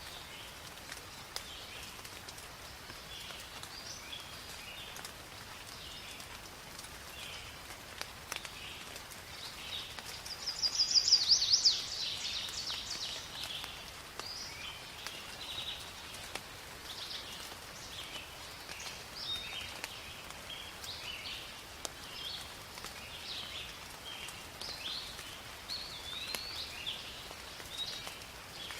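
Steady light rain falling in a forest, with scattered drops, while several birds call with short chirps and whistles. About ten seconds in, one bird gives a loud rapid trill of high notes, the loudest sound here.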